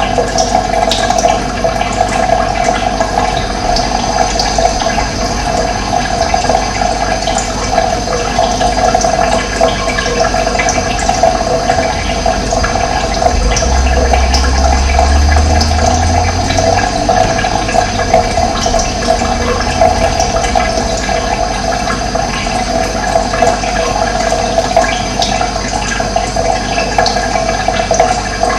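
Steady rush of running water with faint bird chirps scattered over it, and a brief low rumble about halfway through.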